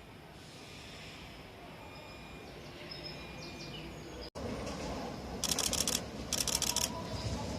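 Railway station platform ambience: a steady background hum and hiss. After a brief gap, two short bursts of rapid, high chirping come about a second apart.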